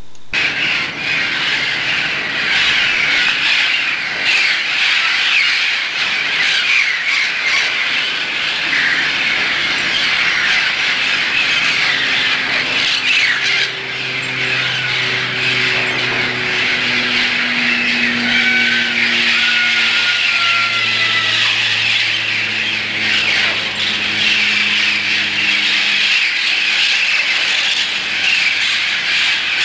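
A large flock of feral parrots squawking, a dense, continuous chatter of harsh calls. From about twelve seconds in until near the end, a steady low hum of several held tones sounds underneath.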